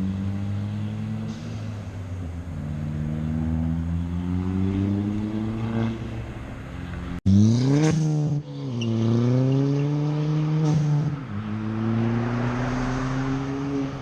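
Turbocharged Ford ST four-cylinder with a catless 3-inch downpipe and aftermarket cat-back exhaust, being revved in slow rises and drops. The sound breaks off suddenly about seven seconds in and comes back with a quick, sharp rev that falls away.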